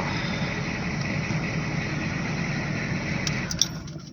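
Ford 6.9 IDI diesel V8 idling steadily, then shut off about three and a half seconds in, running down to quiet, with a couple of sharp clicks as it is switched off.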